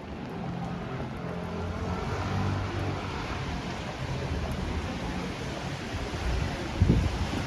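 A motor vehicle's engine hum on a rain-wet city street, rising as it comes close and fading as it moves away, over the hiss of rain and wet tyres. A brief low rumble near the end.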